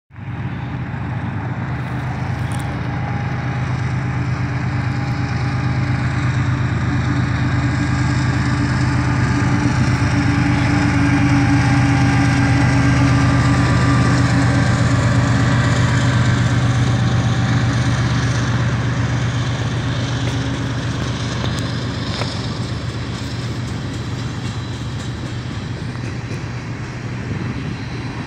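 Freight train passing: the diesel-electric locomotive's engine drones with a steady low hum, growing louder as it approaches, loudest about halfway through as it goes by, then easing off as the coal hopper cars roll past.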